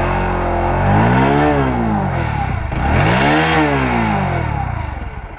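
Bajaj Pulsar NS125's single-cylinder engine blipped twice from idle through its exhaust, the pitch rising and falling back each time, about a second and a half in and again about three and a half seconds in.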